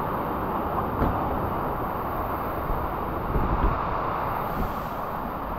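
Steady rushing of a waterfall and rocky stream, with a few soft knocks.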